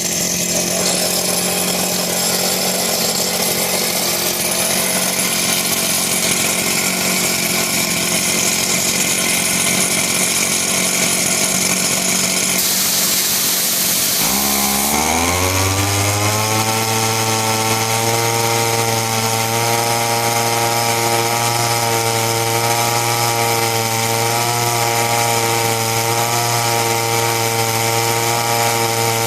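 Small engine of a compact engine-driven air compressor running steadily. About halfway through, its pitch drops sharply, then settles at a lower, steady running speed.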